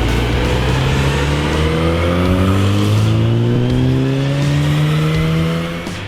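Volkswagen Golf R's turbocharged four-cylinder engine pulling steadily up through the revs under load, its pitch climbing slowly and evenly for several seconds. The engine note drops off sharply near the end as the throttle closes.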